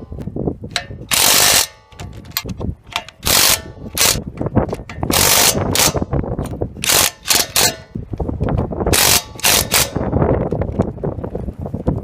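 Cordless Dewalt DCF894H 1/2-inch impact wrench hammering in short bursts, about nine or ten in all, some in quick runs of three, with clatter between them as it works nuts or bolts.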